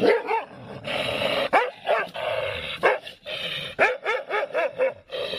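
A dog barking repeatedly, short high barks that come in quick runs.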